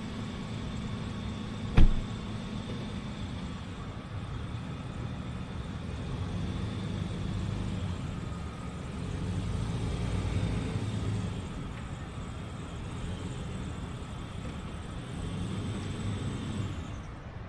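SUV engine running at low speed, a steady low rumble that swells and eases a little, with one sharp knock about two seconds in.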